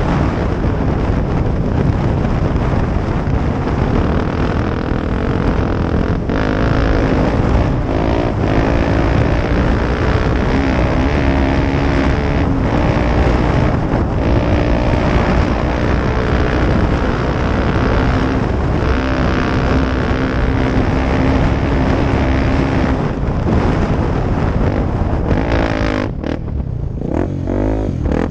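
Off-road motorcycle engine running hard while ridden, its pitch rising and falling, with a dense low rumble underneath. The engine note breaks off briefly several times, then eases down and wavers near the end.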